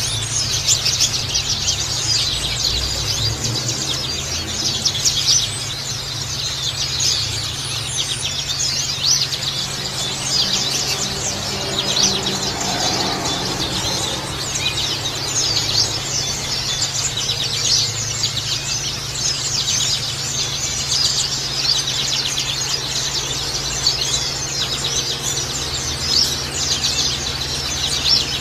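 Oriental white-eyes (pleci) chirping and twittering in a dense, unbroken stream of quick high notes, over trickling water, with a steady low hum beneath.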